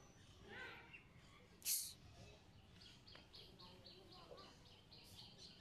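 Faint rural ambience with a small bird chirping in a quick, even series of high chirps, about four a second, starting about three seconds in. A brief hiss comes a little before that.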